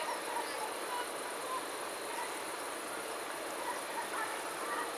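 Scattered short bird chirps over a steady high-pitched hiss of outdoor ambience, with a small cluster of chirps near the end.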